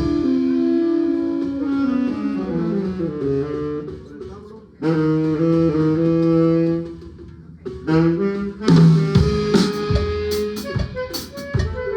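A band playing during a sound check: a melody of held notes that first runs downward, then settles into sustained notes. Drum kit hits and cymbal crashes join about eight seconds in.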